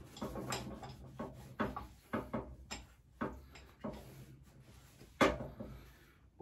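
Irregular light clicks and knocks as parts and tools are handled and cleaned on a workbench, with a sharper knock about five seconds in.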